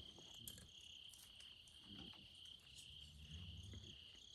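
Faint, steady chirring of crickets, a pulsing high trill that carries on without a break, with a fainter, higher trill cutting in and out. A faint low hum comes in about three seconds in.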